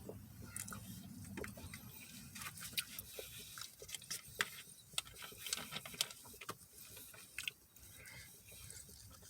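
Faint close-up eating sounds: chewing and biting into fast food, with scattered small crackles and clicks from handling food and wrappers, over a low steady hum.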